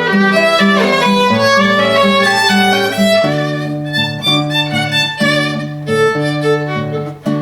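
Violin playing a melody over a steady accompaniment of sustained low bass notes, settling onto a long held note near the end as the piece closes.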